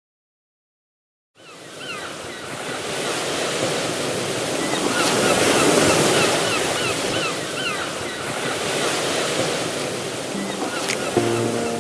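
Sea waves washing, with wind, after a second or so of silence; a few short, high chirps sound over the surf midway, and music begins near the end.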